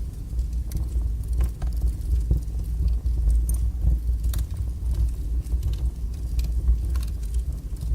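Wood fire burning strongly in a fireplace: a steady low roar with frequent sharp crackles and pops.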